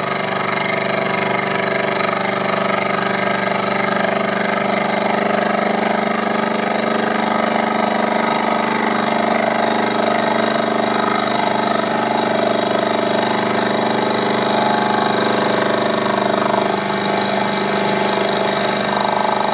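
Proxxon PD 250/E mini lathe running steadily under power, its motor and gear train giving an even, many-toned machine hum while it turns a steel bar.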